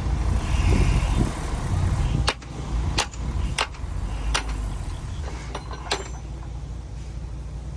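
Heavy diesel earthmoving machinery engine running with a deep rumble that drops in level about two seconds in. About five sharp knocks follow, spread over the next few seconds.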